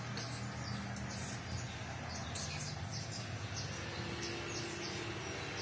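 Quick high-pitched chirps of a small bird, repeating several times a second, over a steady low hum.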